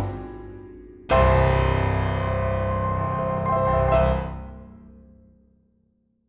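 Background piano music: a chord dies away, a full chord is struck about a second in and rings on with a further accent, then fades out near the end.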